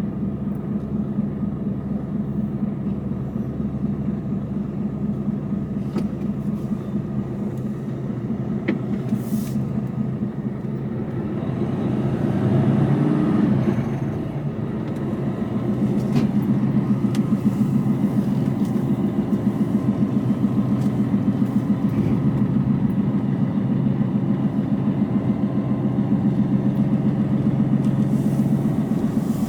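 Mercedes Actros truck's diesel engine running, heard from inside the cab. About halfway through the engine note swells and rises, dips briefly, then settles into a louder, steady, pulsing run.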